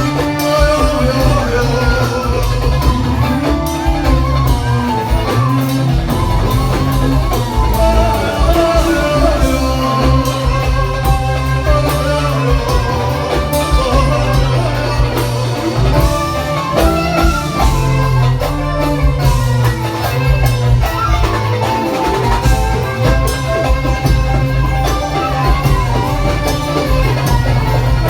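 Live band playing a Turkish pop song, with guitar, a steady bass line and a wavering melody above.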